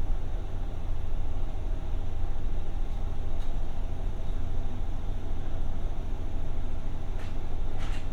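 Steady low hum inside a JR West 201-series electric train car standing at the platform, its onboard equipment running. Two faint clicks come near the end.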